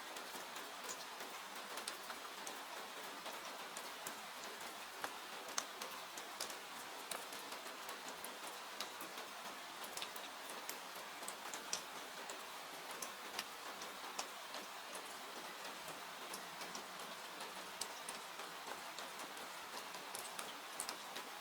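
Steady hiss of falling rain with irregular sharp crackles and pops from a burning wood fire.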